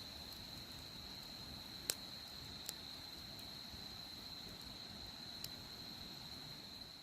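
A steady, high-pitched insect trill, with a few sharp pops from a burning wood fire, the loudest about two seconds in.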